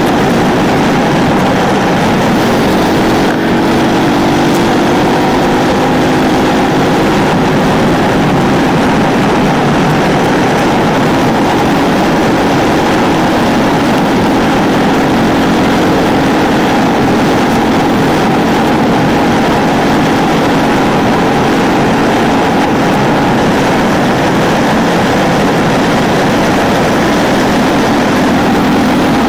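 Ducati 999's L-twin engine running under way, its pitch drifting gently up and down at a fairly steady road speed, over a steady rush of wind noise.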